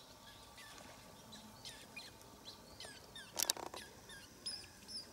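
Small birds chirping: many short, quick downward-sweeping calls with a few thin whistled notes near the end, faint. A single sharp click about three and a half seconds in.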